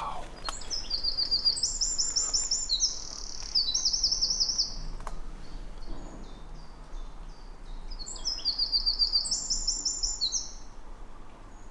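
Eurasian wren singing: a loud, high song of rapid trills that jump between pitches, heard twice, the first about four seconds long and the second, starting after a pause, about three.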